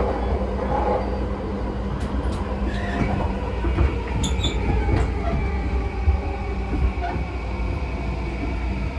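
Running noise heard inside a JR East E235-series motor car: a heavy low rumble of wheels on the rails, with steady, even-pitched whines from the traction equipment. A few sharp clicks come about two seconds in and again around four to five seconds in.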